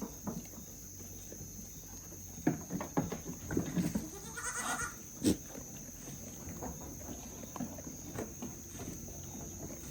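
A goat bleating once, a wavering call about four seconds in, among a few scattered knocks and thumps.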